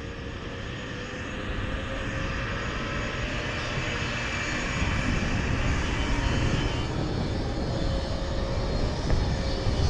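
Possway T3 electric skateboard riding: wheels rolling on pavement, with a faint steady motor whine and wind rushing over the microphone, growing louder over the first few seconds as the board picks up speed.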